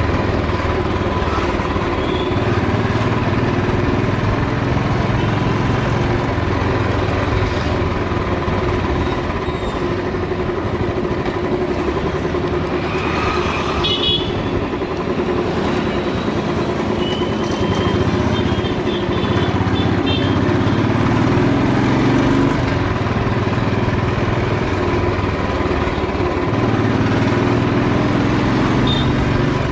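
Old Royal Enfield single-cylinder motorcycle engine running on the move, its note swelling and easing with the throttle. Short vehicle-horn toots come about halfway through and again a few seconds later.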